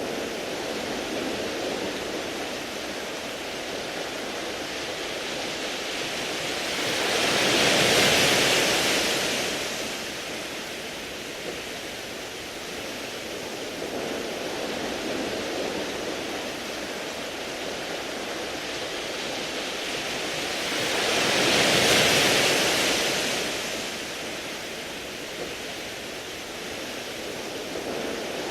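Sea waves washing onto a beach of smooth round pebbles: a steady hiss of water over the stones that swells twice into a louder surge, about eight seconds in and again some fourteen seconds later.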